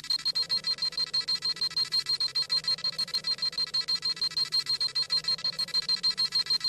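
Dragon Ball Z scouter sound effect: rapid, evenly repeating high-pitched electronic beeping, the scouter reading a power level.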